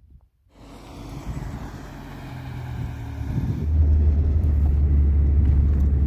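A motor vehicle's engine running steadily, its low rumble growing much louder a little past halfway.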